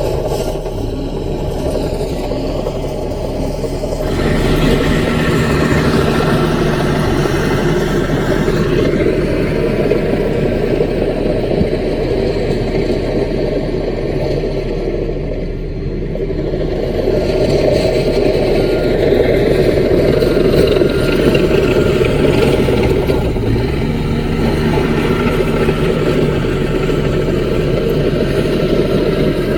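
Diesel engine of a small Caterpillar bulldozer running under load, steady throughout. The note gets louder and fuller about four seconds in.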